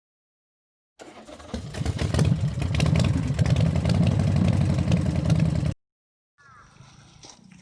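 Honda V-Twin Magna's 250 cc V-twin engine running under way, building up over about a second and then holding steady before cutting off suddenly.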